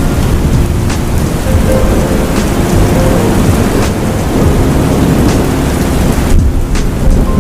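Steady rain hissing with a low continuous thunder rumble underneath and scattered close drop hits. The high hiss briefly thins about six seconds in.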